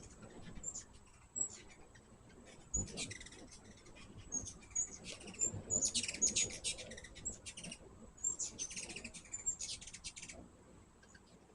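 Hummingbirds chittering: single high chip notes and several bursts of rapid, high squeaky chatter, busiest in the second half.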